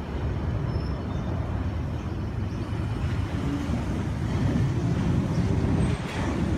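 S-set double-deck electric train pulling out of the platform: a steady low rumble of wheels and traction motors that grows a little louder about two-thirds of the way through as the train picks up speed.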